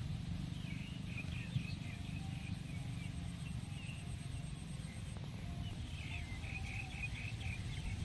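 Outdoor field ambience: a bird chirping in two short runs of quick high notes over a steady low wind rumble on the microphone, with a faint high whine behind.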